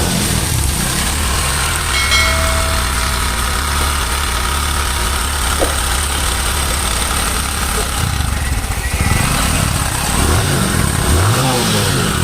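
Bajaj motorcycle engine idling steadily with a timing chain rattle, which the mechanic puts down to the automatic cam chain tensioner not holding the chain under enough pressure.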